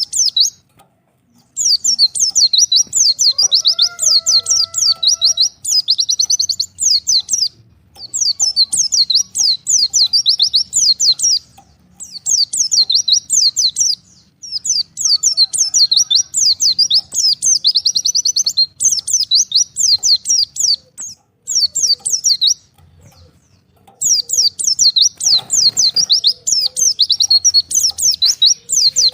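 White-eye (pleci) singing a rapid, high, twittering chatter in phrases a few seconds long, separated by short pauses.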